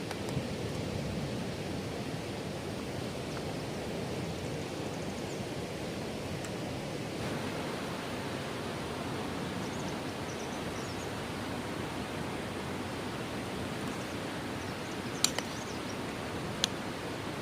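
Steady wash of surf breaking on a beach. Two sharp clicks come near the end.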